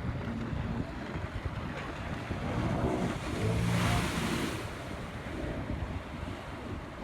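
Jet ski engine running over the water, with wind buffeting the microphone; about three and a half seconds in it grows louder with a rush of spray-like hiss, then settles back.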